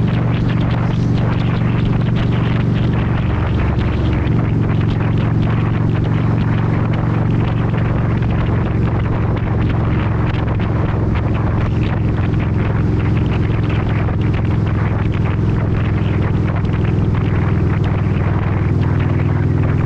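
Motorcycle engine running steadily under way, mixed with wind noise; its note shifts about a quarter of the way in and again near the end.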